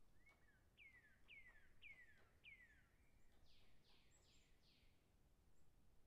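Faint bird song: four clear whistled notes, each sliding down in pitch, about half a second apart, followed by four broader, fuzzier falling notes. A few faint clicks sit under the song.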